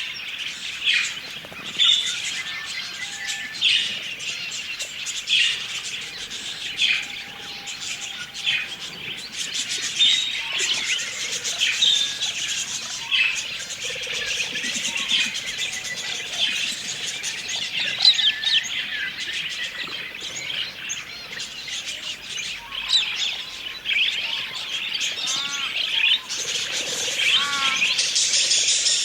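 A flock of budgerigars chattering: continuous overlapping chirps and warbles, with louder single calls standing out every second or two.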